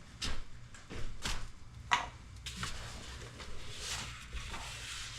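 A few scattered clicks and knocks from hand tools being handled and fitted against the truck, as a ratchet is worked toward bolts it cannot reach.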